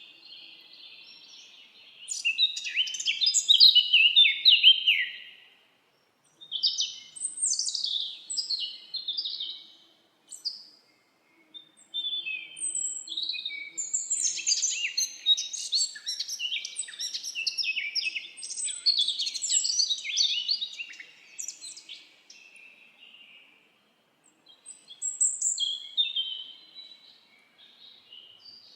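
Several songbirds singing, with quick, high twittering and warbling phrases that overlap. They come in bursts with brief pauses between them, and the busiest, longest stretch falls in the middle.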